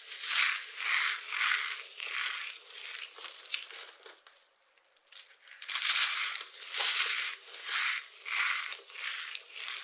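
Dry soap being crushed: a quick run of crunches, a pause of about a second and a half near the middle, then another run of crunches.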